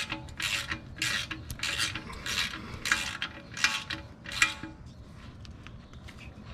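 Ratchet wrench being worked back and forth, a quick scratchy ratcheting burst on each return stroke at about two a second, tightening the oil drain plug back in. The strokes stop a little over four seconds in, leaving a few light clicks.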